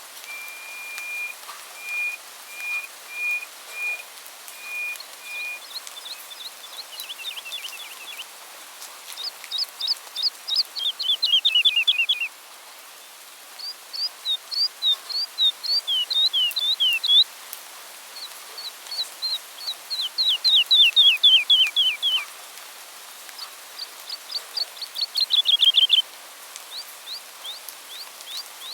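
Songbird singing: first a string of short, even whistled notes on one pitch, then repeated bouts of rapid trilled notes, each bout a couple of seconds long and falling in pitch, over a faint steady hiss.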